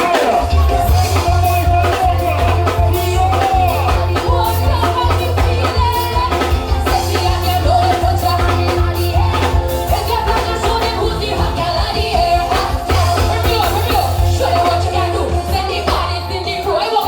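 Amplified live soca band music with a heavy bass line and a singer's voice.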